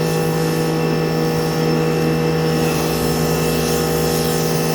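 Giraffe Tools Grandfalls electric pressure washer running steadily under load: an even motor-pump hum with the hiss of the water jet spraying.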